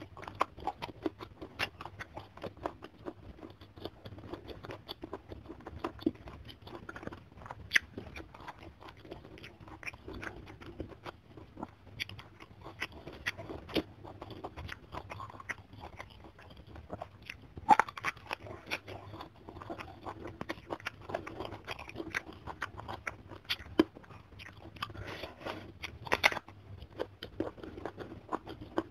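Close-miked eating: a person biting and chewing crisp food, raw young green eggplant among it, with a steady run of wet chewing and sharp crunches. The loudest crunches come about 18 seconds in and again about 26 seconds in.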